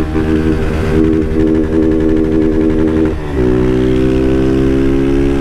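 Honda CG 160 Fan's single-cylinder four-stroke engine running hard at speed through an aftermarket Doré exhaust, heard from on the bike with wind rush. The engine note briefly drops about three seconds in, then holds steady again.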